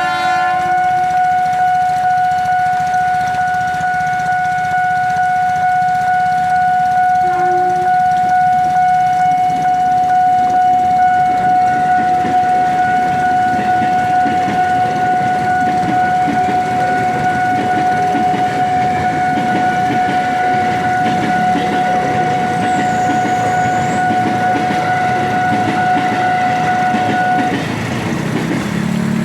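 Railway level-crossing warning alarm sounding one steady high tone while a train rumbles past; the alarm cuts off near the end.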